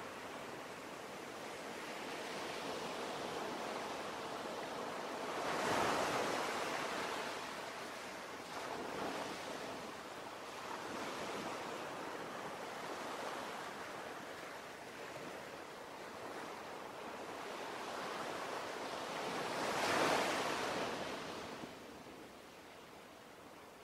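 Ocean surf: waves washing in and drawing back, with two larger waves breaking about six seconds in and again near the end.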